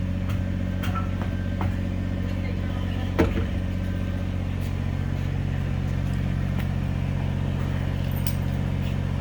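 An engine idling steadily, a low even hum, with a single sharp knock about three seconds in.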